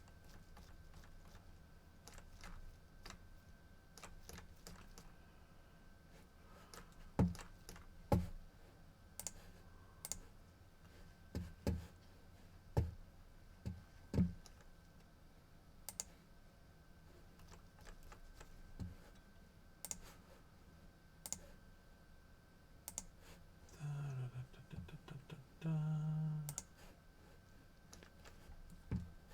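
Computer keyboard typing and clicking in scattered, irregular strokes, with a person humming briefly twice near the end.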